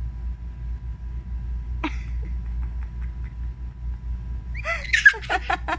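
A baby's short high squeak about two seconds in, then a run of quick, high-pitched squeals near the end, over a steady low hum.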